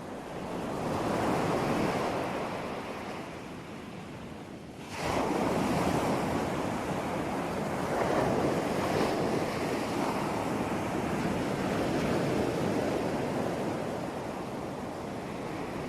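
Ocean surf washing ashore: one wave swells and recedes, then about five seconds in a louder, sustained wash of breaking waves sets in abruptly.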